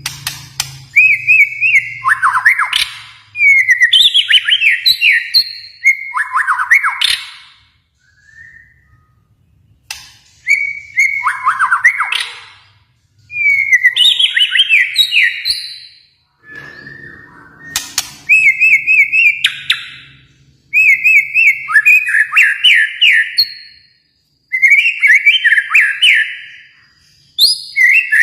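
Kalimantan murai batu (shama) singing: loud phrases of two to three seconds built from rapid repeated notes and falling sweeps, one after another with short pauses between them.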